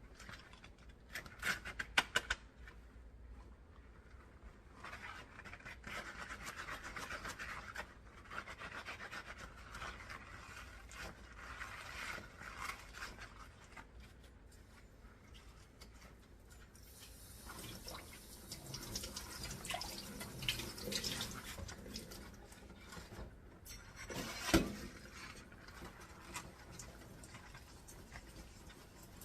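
Dishes being washed by hand: a sponge scrubbing dishware in long stretches, with a few sharp clinks of dishes about two seconds in. Past the middle, a spell of water running. Later on comes a single loud knock of a dish set down.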